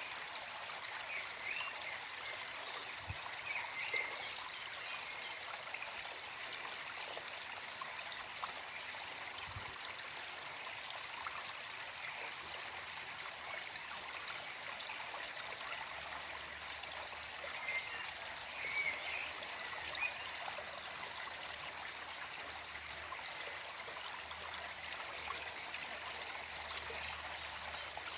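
Small forest stream running and trickling steadily over stones, with a few faint bird chirps near the start and again a little past the middle.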